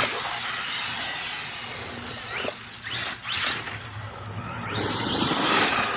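Arrma Mojave EXB RC truck's electric motor whining as it revs up and back down in several bursts, over a rushing noise.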